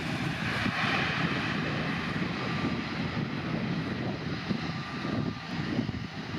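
Airbus A330 wide-body jet landing, its engines making a steady rushing noise that eases slightly after the first couple of seconds.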